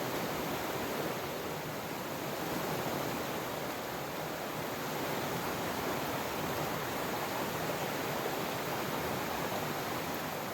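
Steady, unbroken rushing of water, as of heavy rain and a flowing river.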